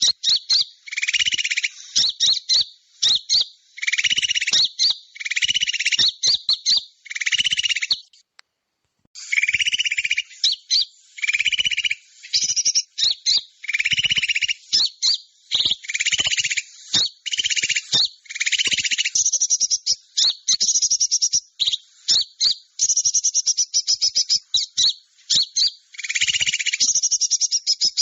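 Bird-lure recording of small birds giving rapid, pulsing chatter calls, repeated in bursts about a second long. There is a brief silent break about eight seconds in.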